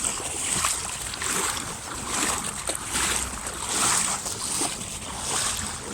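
Floodwater swishing and sloshing around a person's waders as they wade through water about thigh-deep, a surge of water with each stride about once a second.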